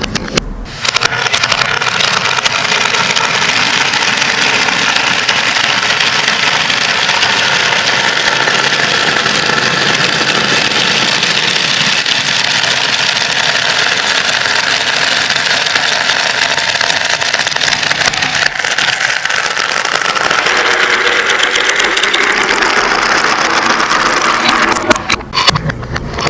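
Many glass marbles rolling and clattering together through a marble-run track, a dense and continuous rattle of tiny clicks that changes character briefly about a second in and again near the end.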